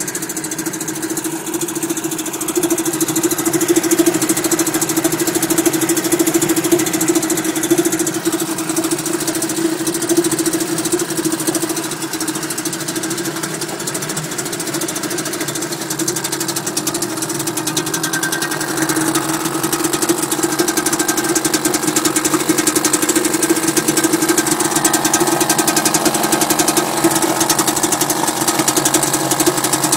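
British Seagull two-stroke outboard motor running steadily at an even pitch, getting a little louder over the last third.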